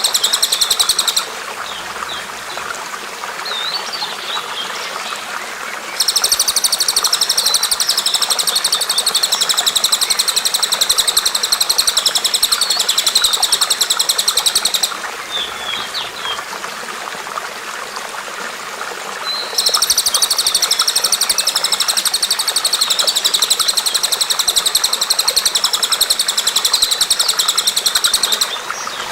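Bird song with long bursts of a fast, high, rattling trill of rapidly repeated notes, each lasting about eight seconds. One starts about six seconds in and another about twenty seconds in, with a short burst at the very start. Between the bursts come a few short chirps, all over a steady rush of running water.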